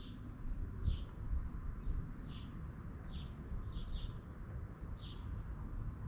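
Small birds chirping: short high notes repeated about once a second, with a brief falling higher call near the start, over a steady low rumble.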